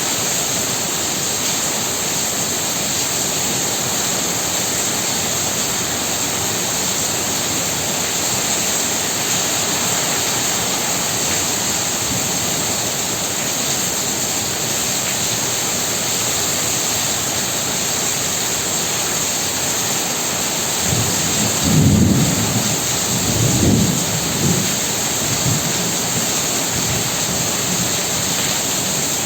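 Heavy rain falling steadily. Over it, about two-thirds of the way in, a low rolling rumble of thunder swells in several waves for a few seconds and then fades back into the rain.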